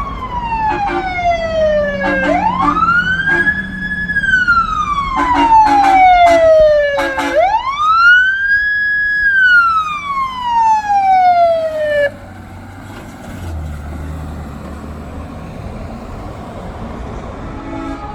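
Emergency vehicle siren on a slow wail, each cycle climbing quickly, holding, then sliding slowly down, two full cycles, with short horn blasts in between; the siren cuts off suddenly about twelve seconds in, leaving vehicle engine and traffic noise.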